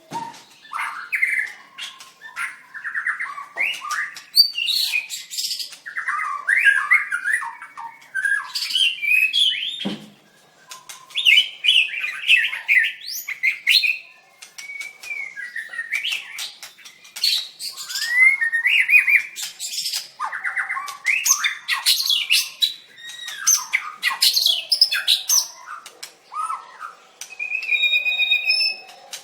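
White-rumped shama singing a long, varied song of whistled phrases, fast trills and harsh chattering notes, with short pauses between bursts and a held clear note near the end.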